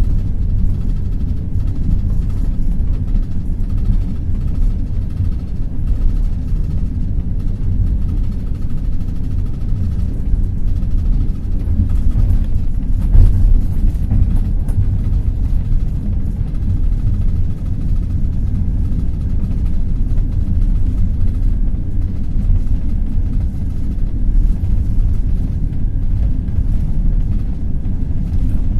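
Passenger train running at speed: a steady low rumble with the clatter of wheels over the rails.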